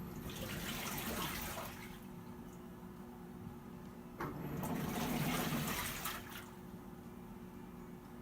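Water sloshing and splashing inside a Hitachi BeatWash top-loading washing machine in two surges, about four seconds apart, over a low steady hum.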